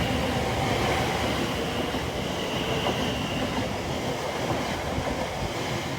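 Greater Anglia Class 720 Aventra electric multiple unit running past, a steady rumble of wheels on rail that eases slightly towards the end.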